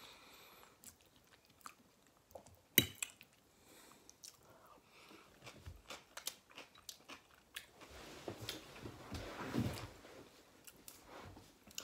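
Close-miked chewing of a mouthful of meatloaf, with small wet mouth clicks throughout and one sharp click about three seconds in. A louder noisy stretch comes near the end.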